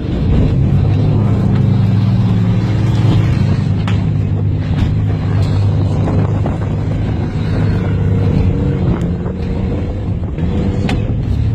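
Race car engines running loud and steady, holding a constant engine note throughout.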